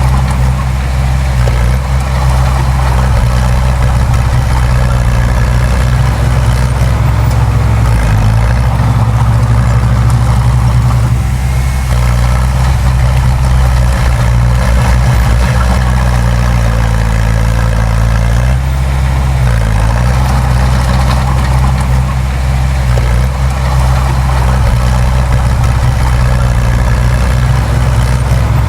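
Heavy diesel engine of earthmoving machinery running steadily under load. Its note dips and recovers about a third of the way in and again past the middle.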